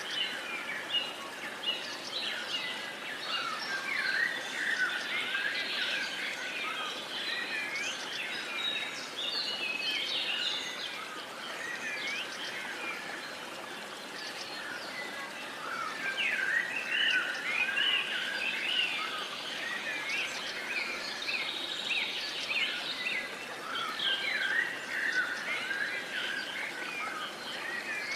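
Many birds singing and chirping together, a dense overlapping chorus of short whistles and trills over a steady faint outdoor hiss; it thins out for a few seconds about halfway through, then grows busy again.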